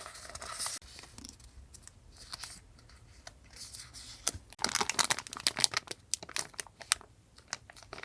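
Packaging being handled and unwrapped by hand, crinkling and rustling, with a dense run of sharp crackles about halfway through.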